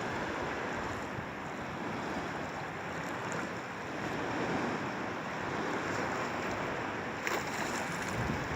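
Sea waves washing in as a steady rush of surf, with wind on the microphone.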